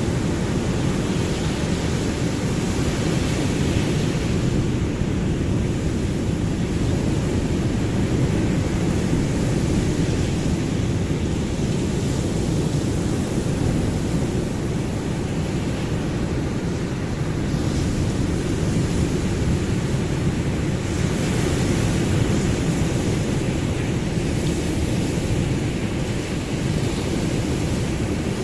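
Ocean waves: a steady, low rush of surf that swells and eases slightly, without separate crashes.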